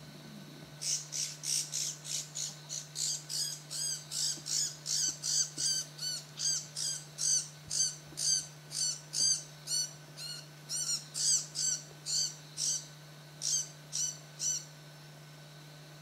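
A bird calling: a long run of short, sharp, high calls at about two a second, starting about a second in and stopping shortly before the end.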